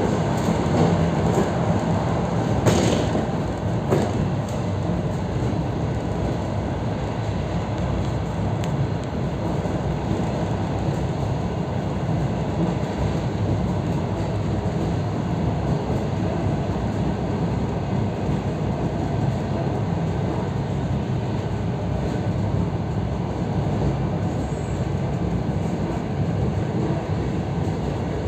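EP3D electric multiple unit running along the line, heard from inside a passenger car: a steady rumble of wheels and running gear. Two sharp clacks come about three and four seconds in.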